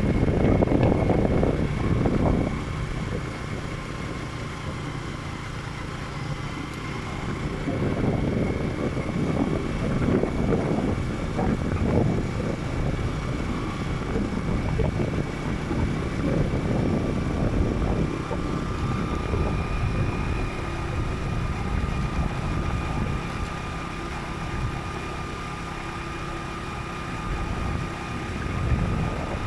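Motorcycle running at road speed, with wind buffeting the microphone in surges and a faint steady high whine.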